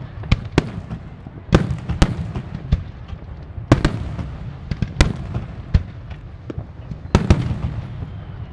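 Aerial fireworks shells bursting in a finale: about a dozen sharp bangs at irregular intervals, a couple of them doubled close together, over a continuous low rumble of echoing reports.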